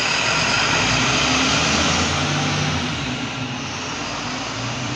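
Heavy diesel vehicle engine running close by, with a strong hiss over a low, steady engine note; loudest for the first few seconds, then easing slightly.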